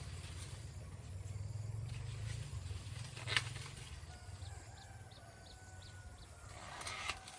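A rooster crowing, one long call in the second half, over a low steady rumble.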